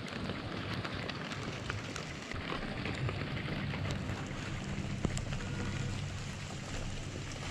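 Light drizzle, with scattered drop ticks, over a steady noisy wash and a low steady hum that sets in a couple of seconds in.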